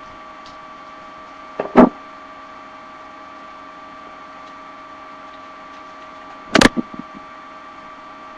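Steady electrical hum with an even whine, broken by two short knocks, about two seconds in and again near seven seconds.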